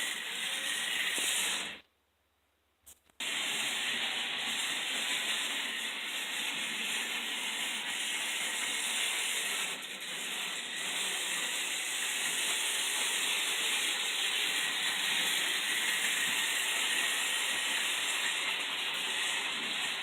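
Märklin HO-scale 0-8-0 steam locomotive model running steadily along the track, its motor and gear train freshly warmed up so they turn freely. The sound drops out for just over a second about two seconds in, then resumes.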